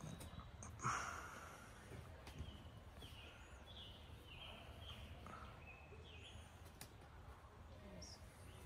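Quiet forest ambience with a bird singing a string of short, falling high notes, about two a second. A brief, louder noise comes about a second in.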